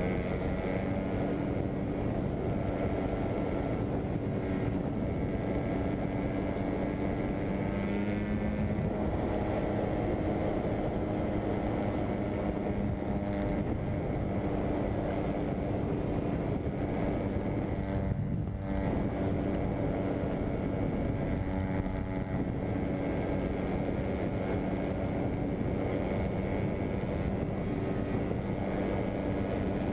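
250 four-stroke dirt bike engine running at steady high revs, with only a brief dip about eighteen seconds in.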